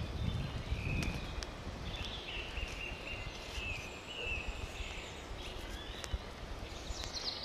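Outdoor ambience with a small bird singing in short, repeated high chirps and trills over a steady background hiss, and a brief low rumble near the start.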